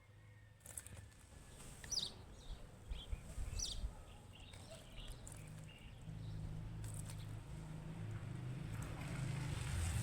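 Birds chirping a few short times in the first half, over a low rumble that grows louder toward the end.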